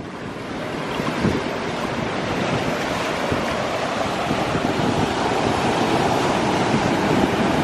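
Ocean surf washing against the shore: a steady rush of water that builds over the first second or two and then holds, with some wind on the microphone.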